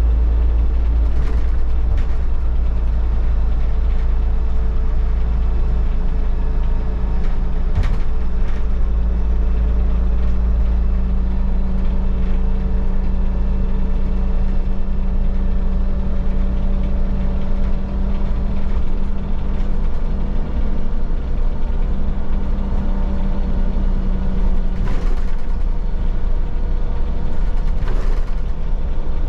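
Solaris Urbino 15 city bus on the move, heard inside the empty passenger cabin: a steady low drone from its MAN diesel engine and Voith automatic gearbox. A few sharp clicks and knocks come from the body, near the start, about eight seconds in, and twice near the end.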